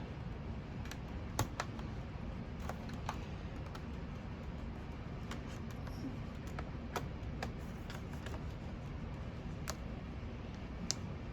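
Scattered small clicks and ticks of a screwdriver working stubborn small screws out of an HP laptop's plastic bottom case, irregular and about a dozen in all, over steady background noise.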